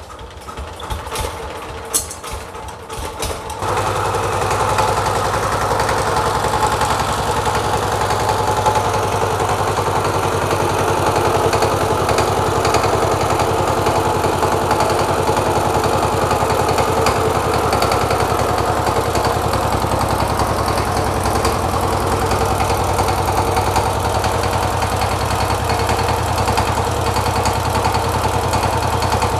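Reconditioned Sifang 12 hp single-cylinder diesel engine being started: a few seconds of clicking while it is turned over, then it catches about three and a half seconds in and runs steadily.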